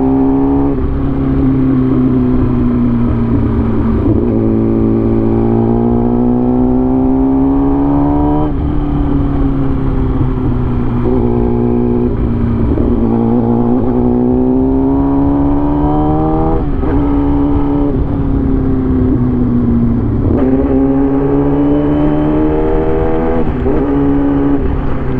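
A motor vehicle engine under acceleration, its pitch climbing and then dropping sharply at each gear change, about five times over, with a steady low drone beneath.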